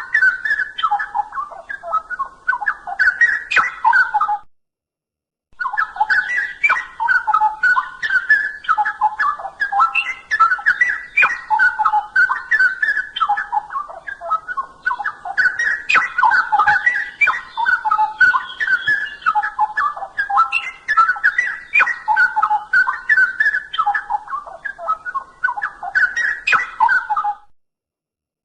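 Straw-headed bulbul (cucak rowo) singing a fast, continuous run of rich warbled whistling phrases. The song breaks off into silence for about a second twice: once about four seconds in and again near the end.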